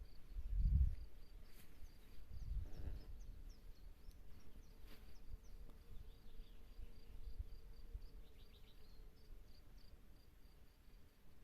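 Faint outdoor ambience: an insect chirping steadily in an evenly repeated high pulse, with a few short, higher chirps over it in the middle and a low rumble underneath.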